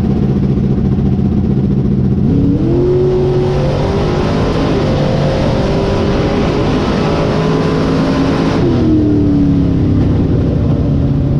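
A loud engine-like drone whose pitch climbs about two and a half seconds in, holds, and falls back near nine seconds, then cuts off suddenly, as if revved and let off.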